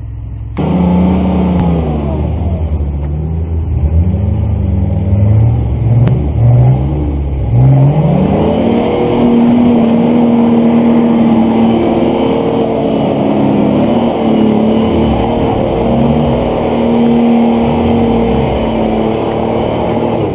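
Off-road SUV engine revving hard as it claws up a steep loose-sand slope. The revs rise and fall for the first few seconds, then are held high and wavering for the rest. The sound starts abruptly about half a second in.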